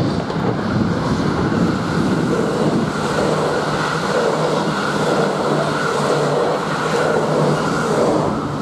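A motor vehicle running at a steady speed, with a steady low hum and wind noise on the microphone.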